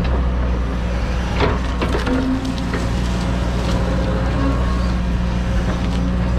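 John Deere 130G excavator's diesel engine running steadily under work, with a few sharp cracks and knocks from wood and brush being torn out.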